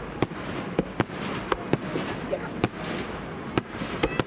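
Aerial firework shells bursting: about six sharp bangs spread over four seconds, with a continuous wash of crackle and rumble between them.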